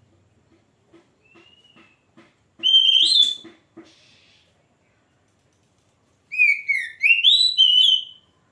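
Oriental magpie-robin (kacer) singing: a loud phrase of sliding whistled notes about three seconds in, then a longer phrase of rising and falling whistles near the end, with faint soft ticks before the first phrase.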